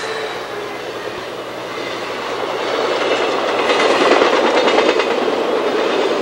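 Train passing at speed: the last of a horn blast fades at the start. Then the rumble swells as the train nears, with wheels clicking rapidly over the rail joints.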